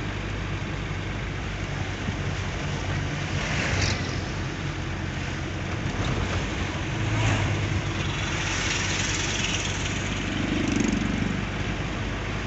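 A motor engine running steadily with a constant low hum, under a rushing noise, with a few brief louder swells.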